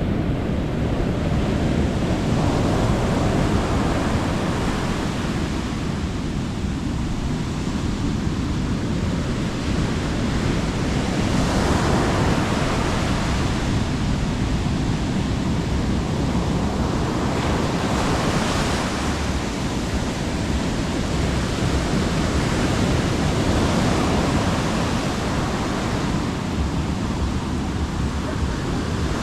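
Sea waves breaking on a beach, a steady wash of surf that swells every few seconds, with wind buffeting the microphone.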